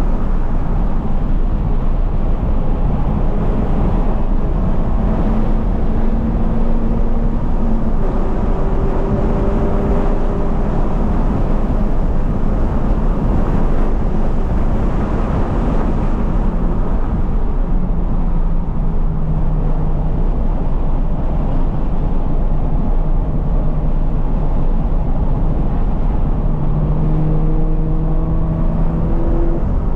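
A 2020 Toyota 86's flat-four engine with a Corsa cat-back exhaust driven hard on a race track, its engine note rising and falling as it moves through the revs, beneath a constant low rumble.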